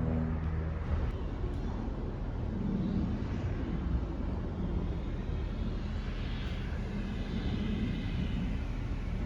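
Low, steady rumble of a vehicle engine. A humming engine note fades out about a second in, and a few faint high chirps come later.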